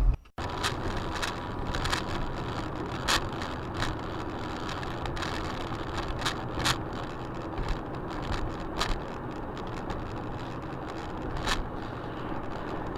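Steady road noise of a car driving, with a dozen or so short sharp clicks scattered through it.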